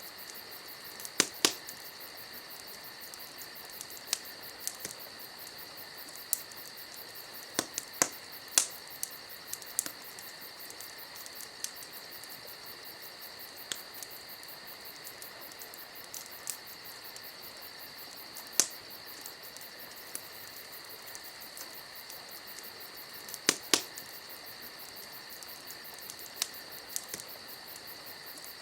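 Campfire crackling with irregular sharp pops, a few of them loud, some in quick pairs, over a steady high chirring of crickets.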